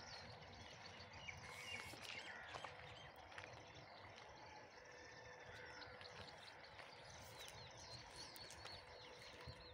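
Faint bird chirps, short scattered calls over a quiet open-air background, with a faint steady tone underneath.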